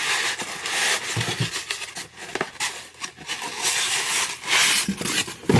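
Packaging rustling and scraping in bursts as items are handled and lifted out of a packed subscription box, with soft knocks about a second in and a sharper knock near the end.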